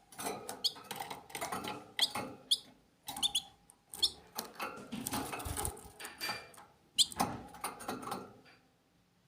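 Small birds chirping in short, high squeaky notes amid quick rustling and scratching, the activity dying away near the end.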